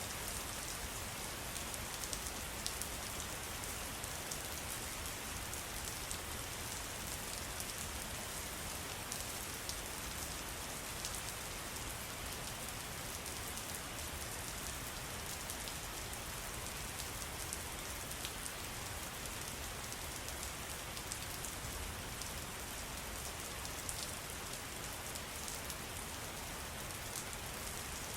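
Steady patter of falling water: a constant hiss dotted with many small drop ticks.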